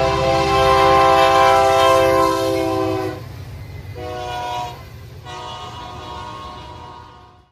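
Locomotive multi-chime air horn sounding a long blast, then a short one, then a final long one: the close of the grade-crossing signal. A low locomotive engine rumble runs underneath, and the sound cuts off abruptly at the end.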